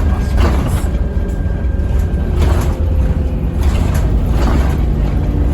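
Scania N230UB OmniCity bus running with a steady low engine rumble, with a few brief rattles or knocks.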